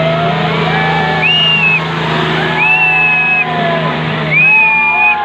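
Tractor engines running steadily under load in a tractor tug-of-war, under a crowd's overlapping shouts and calls that rise and fall.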